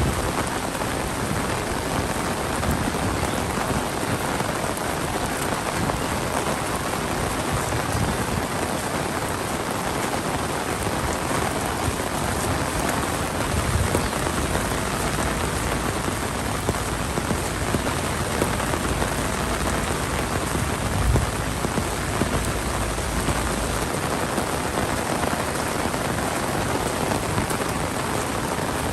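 Heavy monsoon rain pouring down in a steady, dense hiss. A couple of brief low thumps stand out, one around the middle and one about two-thirds of the way in.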